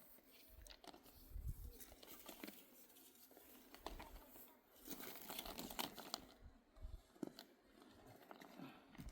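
Near silence with faint, scattered rustling and light clicks.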